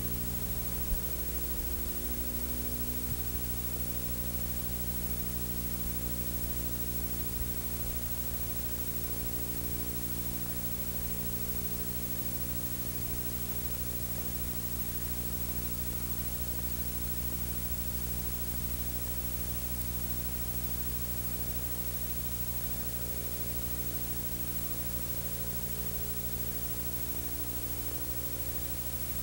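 Steady static hiss with a low electrical hum beneath it, unchanging throughout.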